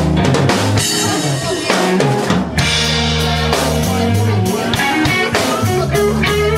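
Live blues band playing an instrumental passage with no singing: the drum kit is prominent, with bass drum and snare hits over held bass notes.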